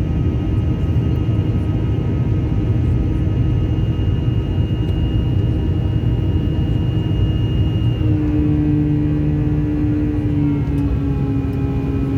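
Airbus A321 jet engines heard inside the passenger cabin: a loud, steady rumble with a high engine whine. About eight seconds in, the whine changes pitch and new lower tones take over as the engine power changes.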